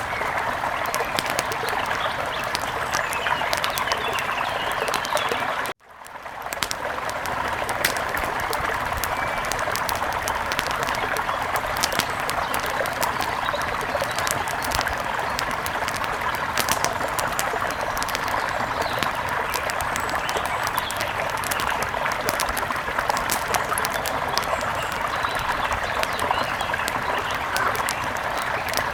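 Wood fire crackling with many sharp pops over a steady rush of river water. About six seconds in the sound cuts out abruptly and fades back up within a second, a splice in the looped ambience.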